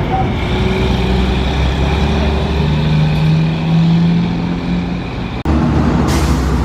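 Heavy truck engine running with a steady low drone. The sound breaks off abruptly about five and a half seconds in and resumes, followed by a short hiss near the end.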